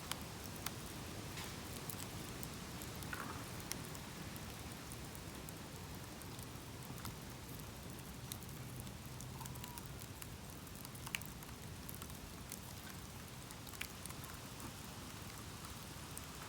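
Bamboo burning in an open bonfire: a steady crackle with scattered sharp pops, the sharpest about eleven seconds in.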